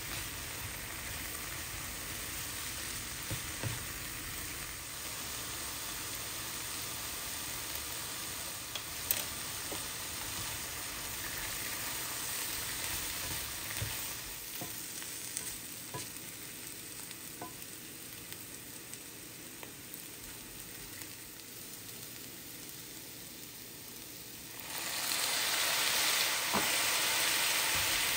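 Baby bella mushrooms sizzling in butter in a hot nonstick skillet as they are stirred with a plastic spatula, with small taps and scrapes of the spatula. About 25 seconds in the sizzle turns suddenly louder and sharper as dark sauce hits the hot pan.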